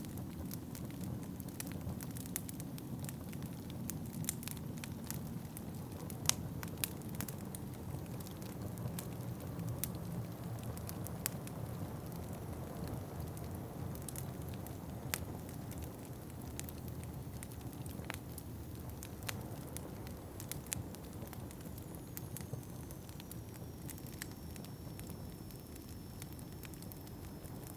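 Wood fire in a fireplace crackling, with irregular sharp pops and snaps over a steady low rumble of wind. A faint high whistling tone comes in near the end.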